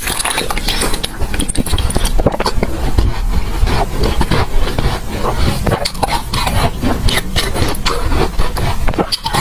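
Close-up chewing and crunching of ice frozen in a water bottle: a dense run of crisp crunches, several a second.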